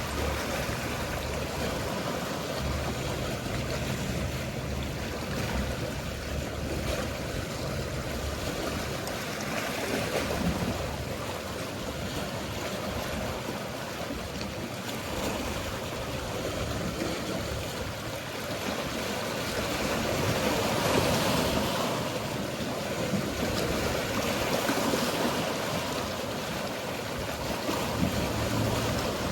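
Mediterranean sea waves washing in gentle swells, with a low hum of a distant boat engine at times.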